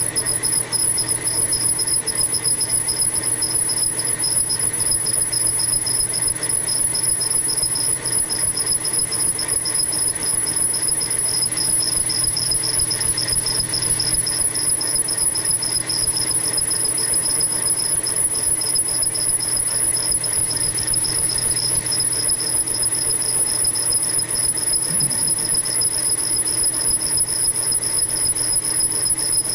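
Bridgeport milling machine running with a boring head cutting a cylinder bore, a steady machine hum with a constant high-pitched whine.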